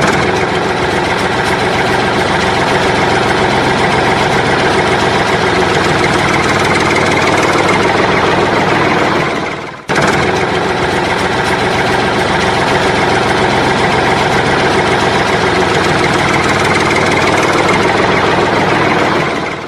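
Steady engine running sound, loud and even, with a brief dip and break about ten seconds in before it resumes, then cut off abruptly near the end.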